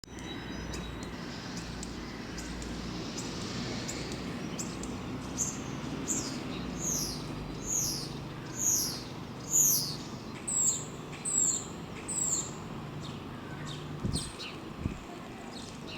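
A songbird singing a series of clear, high, down-slurred notes, about one a second, the last three pitched higher, with scattered short chirps around them over a steady low background hum.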